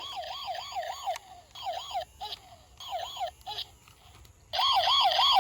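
Battery-operated toy gun's electronic siren sound effect: a warbling tone wobbling about four times a second. It plays in several short stop-start bursts, and the last and loudest begins near the end.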